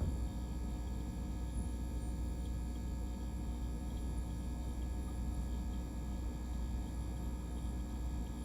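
LG refrigerator running: a steady low hum with several faint steady tones above it. This is the fridge that its owner reports is making a squeaking noise.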